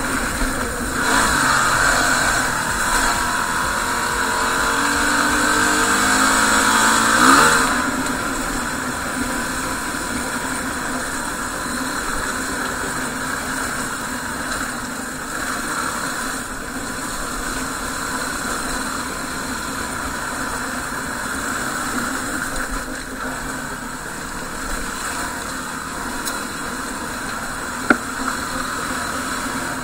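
Yamaha WR250R single-cylinder dual-sport motorcycle engine accelerating, its pitch rising steadily for about six seconds before the throttle is eased off. It then runs at a steady cruise under wind and road noise, with one sharp click near the end.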